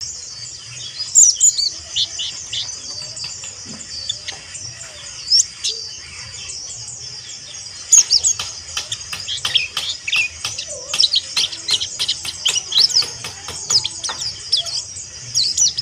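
Mountain white-eye (Zosterops montanus) giving a rough, rapid twittering chatter of short, high chirps and quick down-slurred notes. The chatter becomes denser about halfway through.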